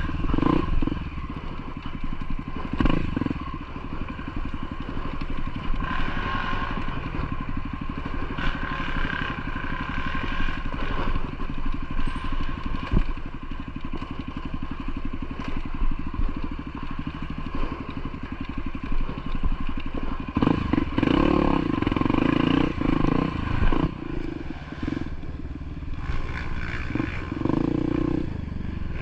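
Motorcycle engine running under way, with a steady rapid firing beat and occasional knocks and rattles. The engine gets louder, under more throttle, about two-thirds of the way through.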